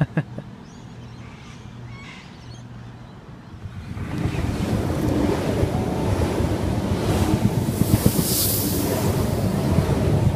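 Electric suburban train running past the platform: a low rumble that swells up about four seconds in and stays loud, with wind buffeting the microphone.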